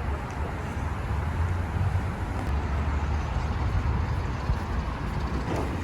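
Steady low background rumble with an even hiss over it, like traffic or a busy indoor space, with no distinct events.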